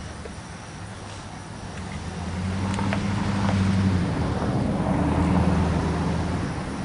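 A motor vehicle engine running: a low, steady hum that grows louder toward the middle and eases off near the end.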